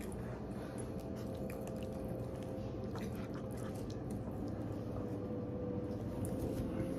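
A person chewing Doritos nachos, with faint scattered mouth clicks over a steady low hum with a thin held tone.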